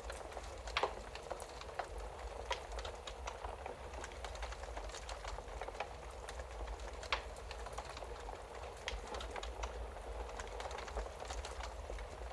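Wood fire crackling in a fireplace: a soft steady hiss with irregular sharp pops and snaps, the loudest about a second in and again about seven seconds in, over a low steady rumble.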